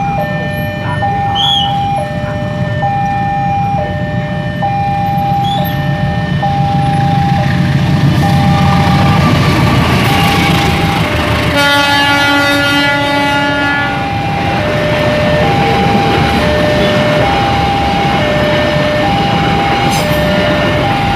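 Level-crossing warning signal alternating between a high and a low tone, each about three-quarters of a second long, over the rumble of a passing train hauled by a diesel locomotive. A train horn sounds for about two and a half seconds roughly halfway through.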